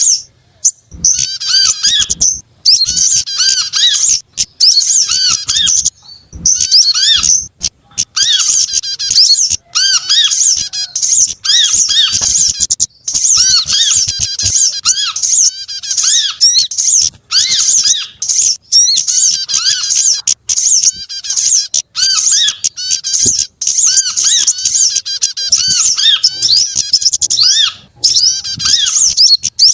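Dense, layered calls of several small songbirds from a bird-lure recording: rapid high chirps and trills over a line of short, repeated arched notes, in bursts broken by brief pauses.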